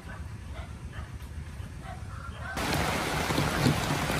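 Heavy rain falling: a loud, even hiss that starts abruptly about two and a half seconds in. Before it, faint short calls repeat about twice a second.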